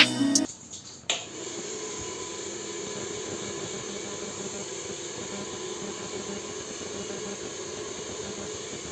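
Hair dryer's fan motor, rewired to run as a blower on 12 V DC, switched on with a click about a second in and then running steadily, blowing air with a hiss over a low hum.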